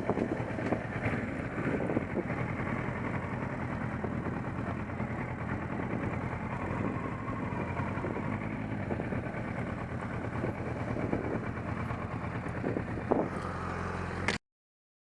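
Motorcycle engine running at a steady pace while riding, with wind and road noise over it; the sound cuts off suddenly near the end.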